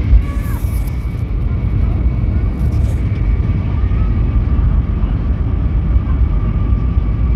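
Cabin noise of an Airbus A320neo: a steady low rumble with a steady high engine whine. A short knock sounds just after the start.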